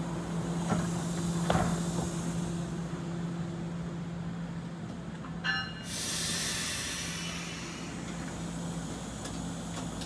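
NJ Transit multilevel commuter train rolling to a stop at the platform, with a steady hum. About halfway through there is a brief high squeal, then a sudden loud hiss of air from the brakes that fades over a couple of seconds as the train comes to a stand.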